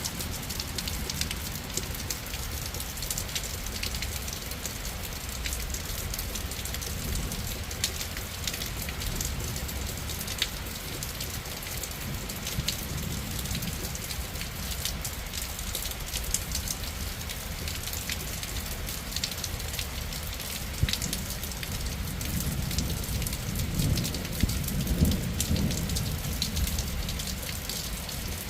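Steady heavy rain falling during a thunderstorm, with many small sharp drop hits. A low rumble of thunder swells and fades near the end.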